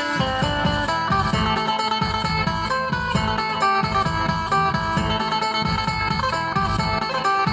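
Music led by the phin, the Isan plucked lute, playing a quick melodic line of plucked notes over a steady low bass accompaniment.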